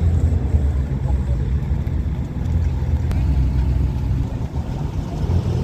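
Car engine running at a steady low idle, a deep rumble.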